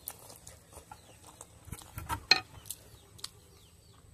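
Close-up mouth sounds of a man chewing a mouthful of ramen noodles: scattered wet clicks and smacks, the loudest a little past two seconds in.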